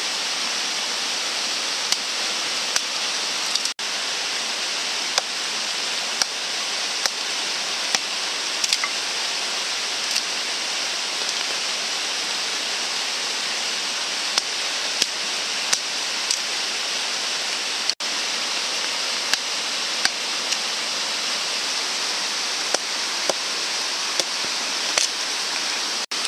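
Steady hiss of heavy rain, with scattered sharp ticks.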